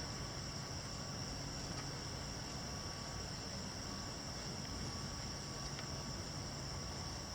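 Crickets trilling: one continuous high-pitched note that holds steady, over a low background rumble.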